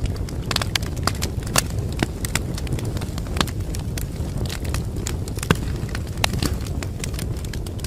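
Wood fire crackling in a fireplace: irregular sharp snaps and pops, a few each second, over a steady low rumble of the flames.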